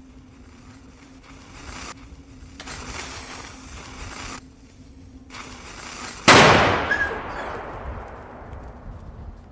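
A single loud firework bang about six seconds in, dying away over roughly three seconds, after a stretch of faint hiss that starts and stops.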